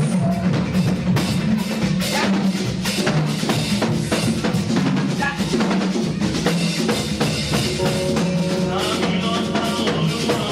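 Live praise music driven by a drum kit, with bass drum, snare and rimshot strokes keeping a steady beat under held instrument notes.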